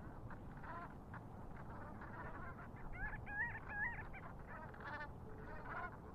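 Water birds calling over one another in a steady chorus of short calls, with three louder pitched calls in quick succession about three seconds in.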